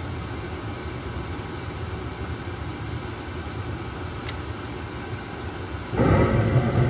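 Gas furnace starting up on a call for heat: the draft inducer motor hums steadily, a faint tick comes about four seconds in, and about six seconds in the burners light with a sudden, louder rush that keeps going.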